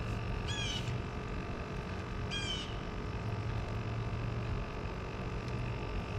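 A bird calls twice, each call a quick run of short descending notes, over a steady background hum.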